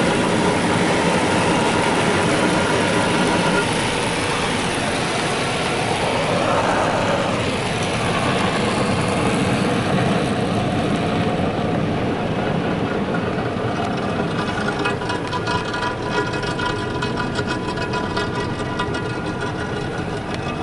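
Mark VII ChoiceWash XT in-bay car wash working over the truck in a slow pass, heard from inside the cab: a steady din of scrubbing and spraying. The hiss eases about halfway through, and a steady multi-tone motor whine comes in for the last several seconds.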